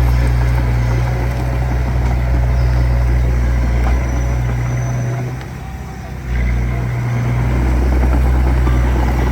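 D20P crawler bulldozer's diesel engine running steadily under load. The engine eases off for about a second past the middle, then picks up again.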